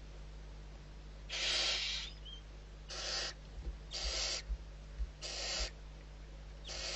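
Barn owl giving a series of harsh, hissing screech calls, about five in all and roughly a second apart, the first the longest.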